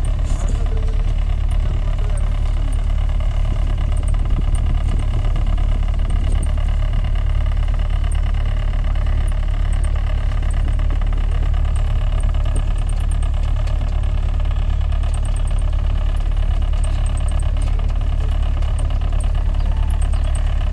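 Tour boat's engine running steadily, a constant low drone heard on board.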